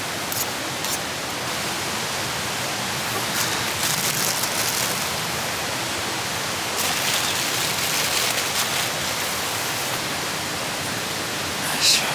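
Food sizzling in a pan over a campfire: a steady hiss with a few brief louder spells, and a short metal clink near the end.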